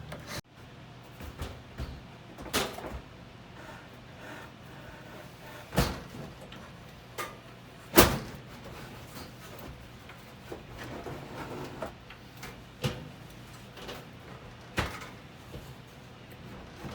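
Irregular knocks, clicks and clunks of metal parts and tools being handled while an RV furnace is screwed into place, the loudest knock about halfway through, over a faint steady hum.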